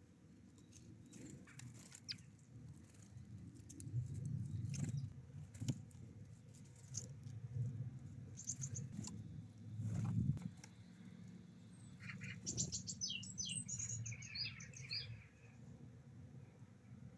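Small songbirds at a feeder: scattered short chirps, then a quick run of high calls from about twelve to fifteen seconds in. Under them are occasional sharp taps and a low rumble.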